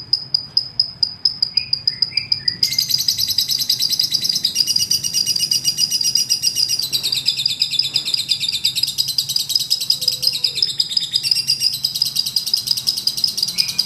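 Lovebird singing a long, rapid chattering trill of high chirps: separate chirps for the first couple of seconds, then a dense, unbroken run.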